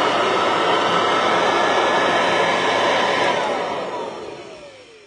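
Kirby Classic Omega upright vacuum cleaner running at full speed, then switched off about three seconds in, its motor whine falling in pitch as it winds down.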